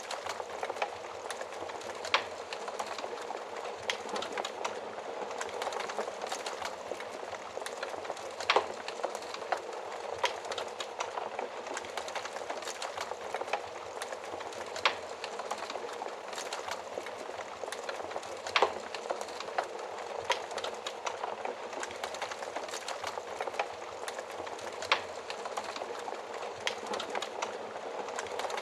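Fire burning in an oven fireplace, crackling steadily under a constant hiss of flames. Frequent small clicks are broken by a handful of sharper, louder pops spaced several seconds apart.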